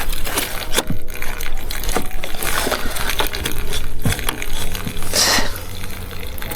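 A PVC irrigation pipe and its fittings being handled: several sharp knocks and clicks of plastic, with a brief rushing burst about five seconds in.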